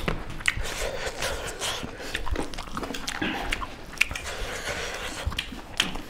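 Close-up eating sounds of people eating rice and curry with their hands: chewing and wet mouth smacks with scattered small irregular clicks.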